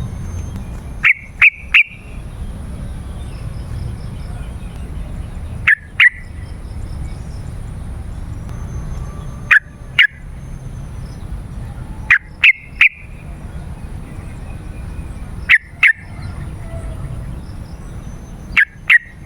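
Yellow-vented bulbul (trucukan) calling in short, loud bursts of two or three sharp notes. Six such bursts come a few seconds apart over a steady low background rumble.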